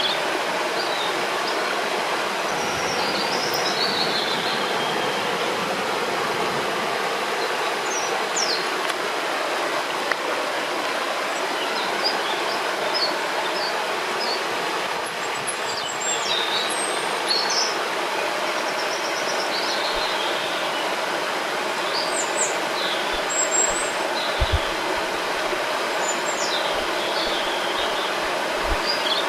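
Steady rushing of river water, with birds chirping and calling now and then above it.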